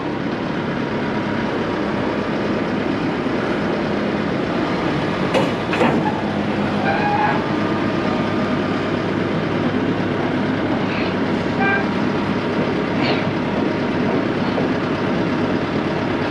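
Heavy equipment engine running steadily, with a couple of sharp knocks about five to six seconds in and a few brief squeaks later on.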